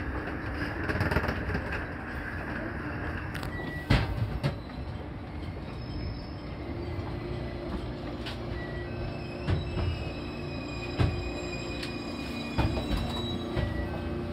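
JR Kyushu 813 series electric train rolling slowly and braking into a station platform: a steady rumble with several sharp knocks, the loudest about four seconds in, and faint thin wheel squeals in the second half.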